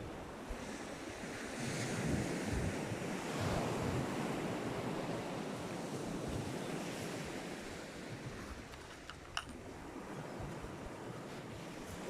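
Sea waves washing onto the beach, swelling louder about two seconds in and easing off, with wind buffeting the microphone. A single sharp click sounds about nine seconds in.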